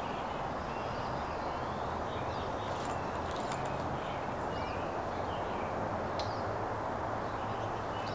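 Backyard ambience: small birds chirping now and then over a steady background hum.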